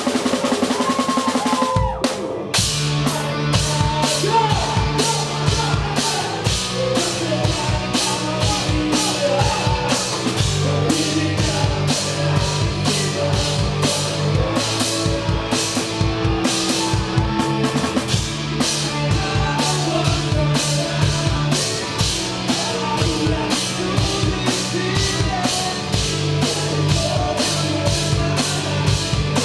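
Live rock band playing, the drum kit loud and to the fore over bass and guitar. After a brief break about two seconds in, the drums come in with a steady run of hits.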